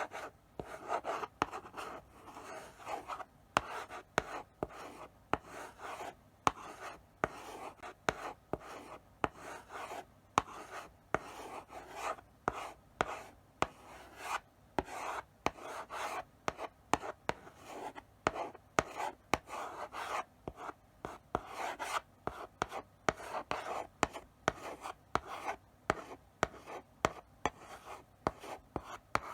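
Chalk writing slowly on a blackboard: short scratchy strokes with sharp taps as the chalk touches down, in an uneven rhythm of a few strokes a second.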